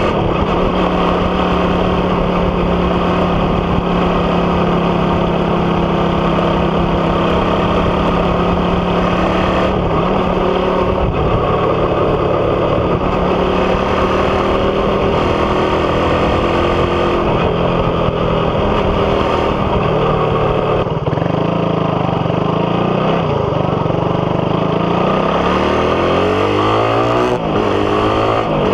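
Suzuki Raider 150's single-cylinder engine running through an aftermarket exhaust with the catalytic converter removed, a big elbow header and a big tip. It holds a steady note for the first ten seconds or so, then its pitch rises and falls, with several quick rising sweeps near the end as it revs up.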